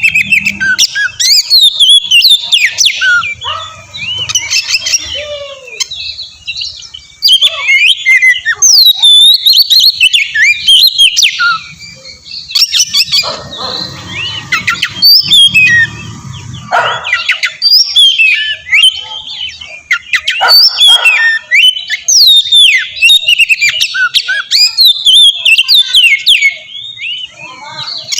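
Oriental magpie-robin singing a loud, varied song of rapid whistled notes that glide up and down, mixed with chirps, with short breaks about six and twelve seconds in. It is a lure song meant to make another magpie-robin answer.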